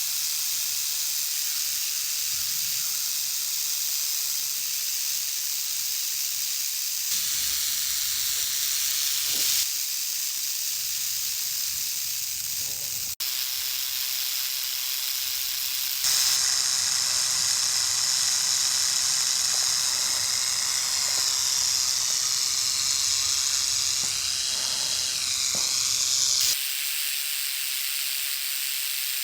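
Canebrake rattlesnake rattling its tail in warning: a continuous dry, high buzz that jumps abruptly in level a few times where takes are joined.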